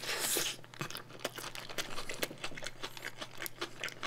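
A bite into a burger held in its paper wrapper, with the paper crinkling in the first half-second. Steady chewing with many quick, small wet clicks follows.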